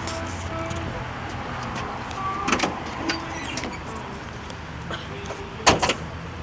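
Clicks and metallic clunks from the car being opened up. There is a cluster of knocks about two and a half seconds in and a loud double clunk near the end, over a steady low hum.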